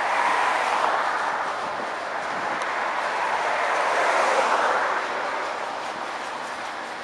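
Covered hopper cars of a long freight train rolling past on the rails, a steady rushing rumble of wheels on track that swells about a second in and again around four seconds, then eases off.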